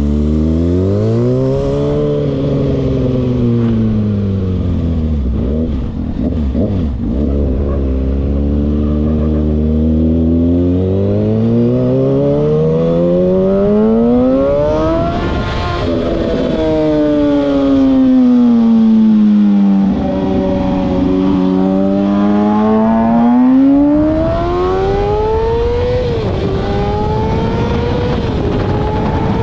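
Car engines revving, their pitch climbing and falling slowly over several seconds at a time. Near the end the pitch climbs and drops abruptly a couple of times, like upshifts under acceleration.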